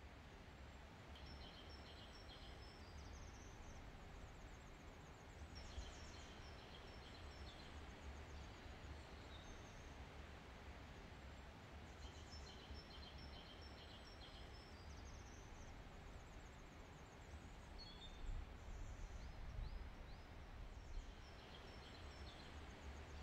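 Faint outdoor ambience with a low rumble, and small birds chirping in short repeated high phrases that come in several separate bursts.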